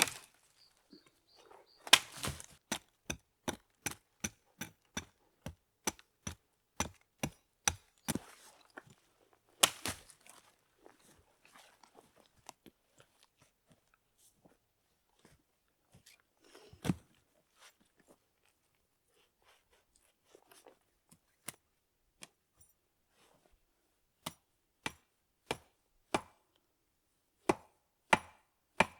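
Rhythmic chopping with a blade: sharp knocks about two a second. The knocks stop for a long stretch in the middle, with only a few scattered ones, and pick up again near the end.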